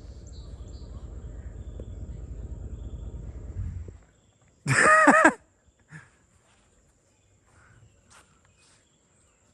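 A pickup truck's LS V8 running with a low, steady rumble that cuts off abruptly about four seconds in, as the truck fails to make it up a hill. About a second later comes a single loud vocal exclamation, followed by faint clicks.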